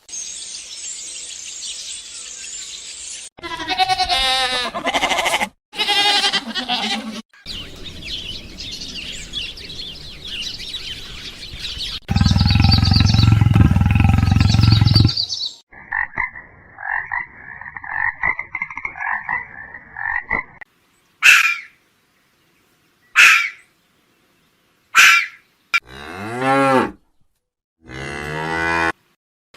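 A string of different animal calls cut one after another: pitched calls, a long low rumbling stretch, an evenly pulsed trill, then several short, sharp calls and a sweeping call near the end.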